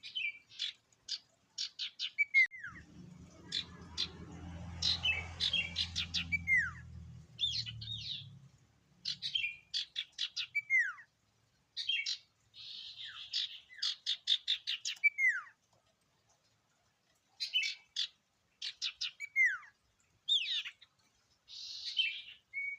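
Common iora (sirtu) singing: phrases of rapid, sharp chirps and trills, mixed with a few buzzy notes and long downward-slurred whistles, with short pauses between phrases. A low rumble sits under the song for a few seconds near the start.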